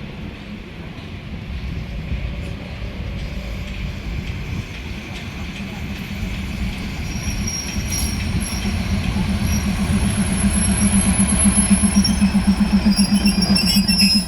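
Passenger train running along the track: a steady low rumble of wheels and carriage. About halfway through, thin high squealing tones come in, and a pulsing hum grows louder toward the end.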